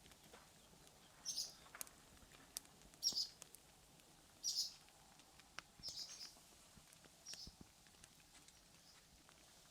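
A small bird calling five times with short, high chirps, about one every second and a half. Faint scattered clicks sound between the calls.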